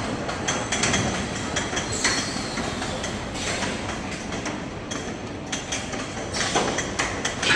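High-pressure bottle washing machine running, with a steady rushing hiss and irregular mechanical clanks and knocks.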